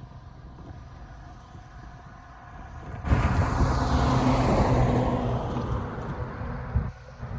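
A road vehicle passing close by the railroad crossing: a loud rush of road noise that comes in suddenly about three seconds in, falls in pitch as it goes by, and drops away near the end, over a steady low hum.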